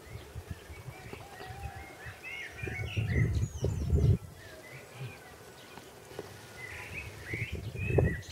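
Birds chirping with many short calls throughout. Low rumbling bursts on the microphone come about three to four seconds in and again near the end, louder than the birdsong.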